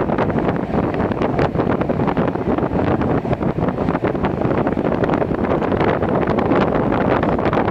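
Wind buffeting the microphone at the open window of a moving 1980s train, over the steady running noise of the train on the rails.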